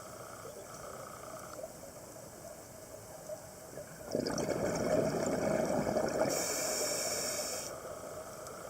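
Underwater audio of a scuba diver's exhaled bubbles from the regulator: a gurgling rush of bubbles starts about four seconds in, lasts roughly three and a half seconds, and gains a hissing edge near its end.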